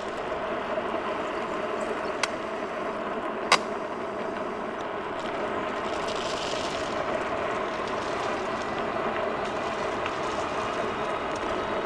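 Jansno X50 electric bike riding along, a steady running noise of tyres and motor with two sharp clicks a little over two and three and a half seconds in.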